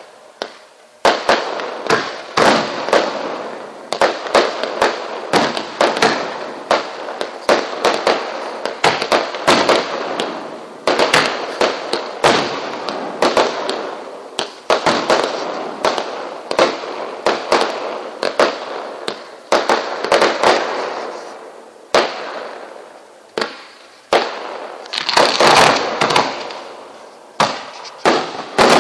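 Fireworks display: aerial shells going off in quick succession, starting about a second in, with a loud bang every half second to a second. Each bang dies away over the following second.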